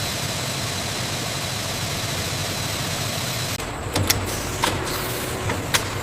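Steady machinery noise that changes a little over halfway through, followed by four sharp metallic clanks in the last two seconds.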